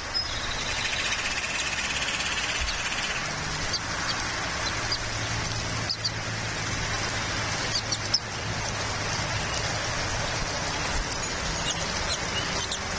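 Steady outdoor hiss with a low hum underneath, and a few faint, short high bird chirps scattered through it.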